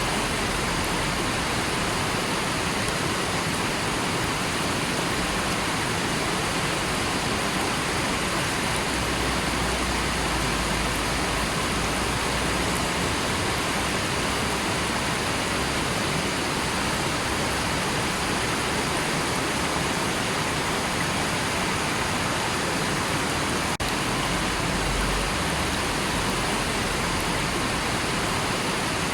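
Steady rushing of a river, an even wash of flowing water, with a split-second dip about two-thirds of the way through.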